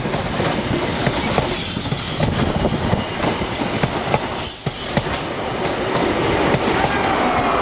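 HST (InterCity 125) Mark 3 coaches rolling past at close range as the train departs: a steady rumble of wheels on rail with rapid clicking over the track joints and some faint wheel squeal.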